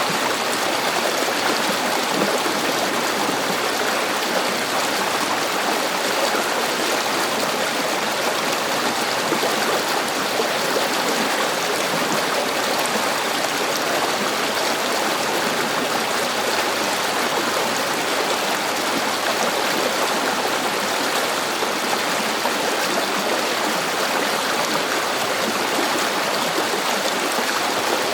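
River water flowing over stones: a steady, unbroken rushing with some gurgling.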